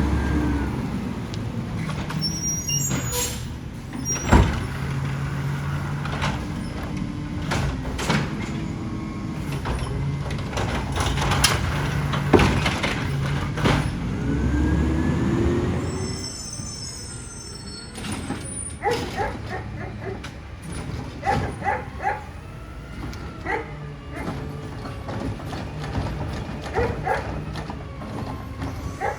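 Side-loader garbage truck working: the engine runs and revs up twice as the hydraulics work, with some sharp clanks. After about sixteen seconds it drops lower, and many short, sharp, repeated sounds follow.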